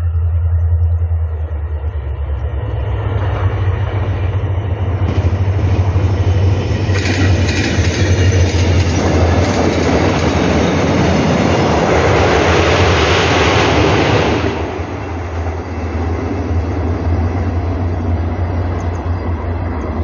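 Diesel-hauled Mugunghwa-ho passenger train passing over a rail bridge: the sound builds over the first few seconds, with locomotive and wheel noise loud through the middle and sharp clicks of wheels over the rails. It falls off suddenly about two-thirds of the way through as the train moves on. A steady low rumble underlies it throughout.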